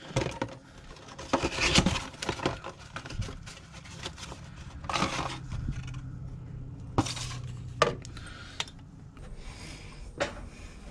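Small parts being handled by hand during a fuel filter swap: an irregular run of clinks, knocks and rustles, over a faint steady low hum.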